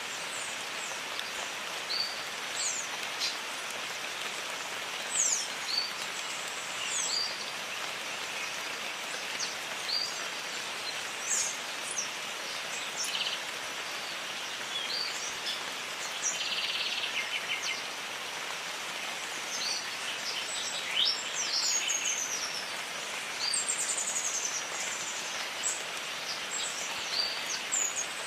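Steady rain falling as an even hiss, with many birds calling over it in short chirps and whistles throughout and a brief buzzy trill about halfway through.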